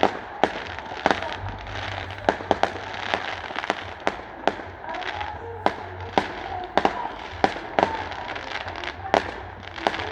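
Fireworks going off: a string of sharp bangs, roughly two a second at uneven spacing, over a steady background hum.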